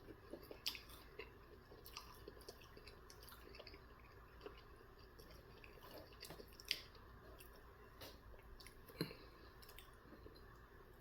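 Faint close-up chewing of sauced chicken nuggets, with scattered wet mouth clicks and smacks and a few louder ones.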